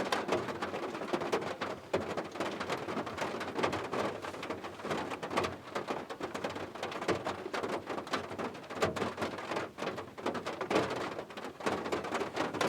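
Steady rain falling, a dense run of separate drop hits over an even hiss.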